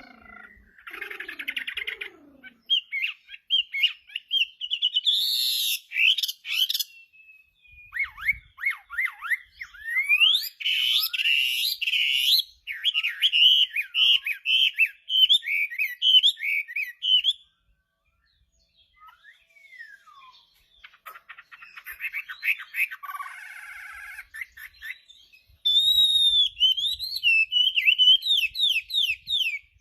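Chinese hwamei (Garrulax canorus) in full, vigorous song: loud, varied phrases of clear whistles sliding up and down and rapid trills, broken by short gaps and a few seconds' lull past the middle.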